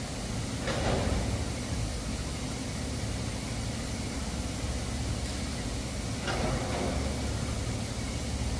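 Welding arc running steadily during a root pass with 308 stainless filler: an even hiss over a low hum, with a brief brighter crackle about a second in and another past six seconds.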